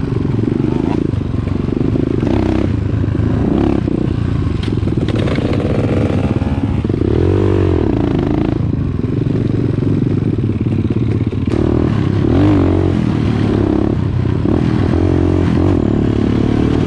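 Dirt bike engine running on a trail ride, its revs rising and falling with the throttle.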